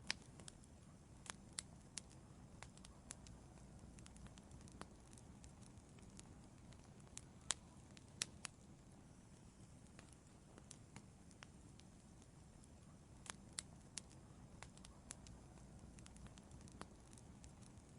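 Wood fire in an outdoor fireplace crackling: irregular sharp pops and snaps, several a second at times, with the loudest ones a little before halfway and again after two thirds of the way. Under them is a faint, steady low rumble.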